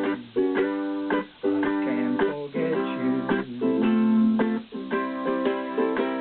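Tenor ukulele strummed in a steady rhythm, playing chords in the key of C with no voice over them.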